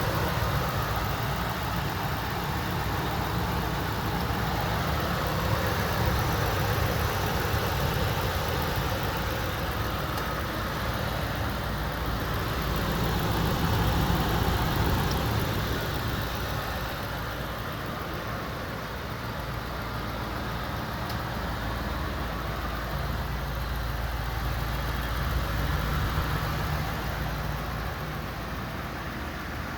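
2002 Ford F-150's 4.6L V8 idling steadily.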